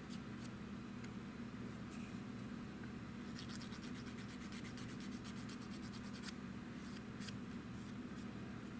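Sanding on a small, thin soft-plastic model kit part, a run of short scratchy strokes, taking down a sprue-gate remnant that bleeds onto the part.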